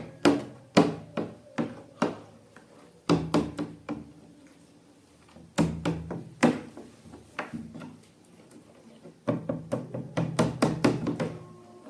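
Irregular sharp taps and knocks coming in clusters, with quieter stretches between them.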